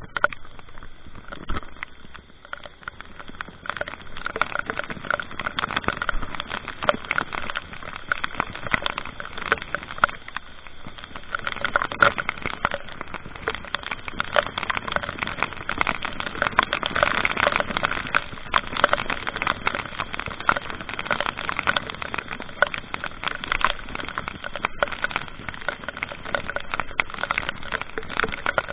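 A vehicle on the move: a steady rush of road and wind noise, thick with crackling ticks on the microphone.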